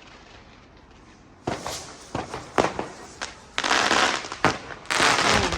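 A firework rocket going off: after a quiet start come a few sharp cracks, then two loud rushing hisses of about a second each in the second half.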